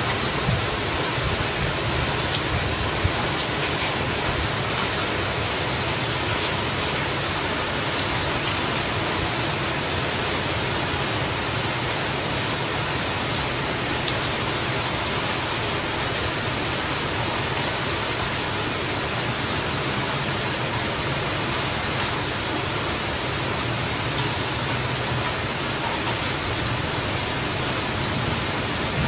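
Heavy rain falling steadily, an even hiss, with a few faint ticks of single drops.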